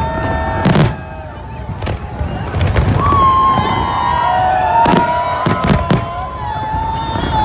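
Fireworks display: aerial shells bursting with sharp bangs, a quick cluster of several about five to six seconds in, over a continuous low rumble.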